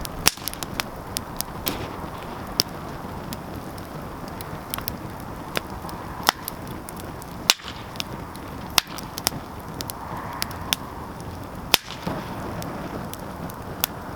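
Wood fire burning in a fireplace, crackling with irregular sharp pops over a steady hiss; a few pops stand out louder, just after the start, about midway and near the end.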